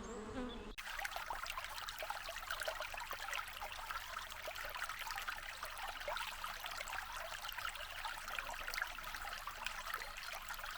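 A bee's buzz cuts off under a second in, giving way to running water: a steady trickling splash with many small droplet ticks.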